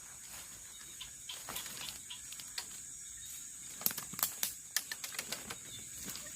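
Steady high-pitched hum of night insects, with a scatter of sharp clicks and crackles that come thickest about four seconds in.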